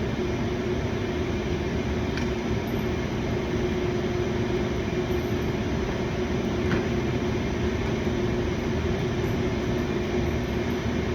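Steady mechanical hum with a held low tone, like a running fan or compressor, with two faint clicks about two and seven seconds in.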